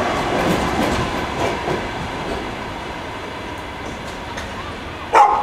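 Sleeper train's coaches rolling out, wheels clicking over rail joints, the rumble fading steadily as the last coach draws away. Near the end a brief, sharp sound with falling pitch cuts in, louder than the train.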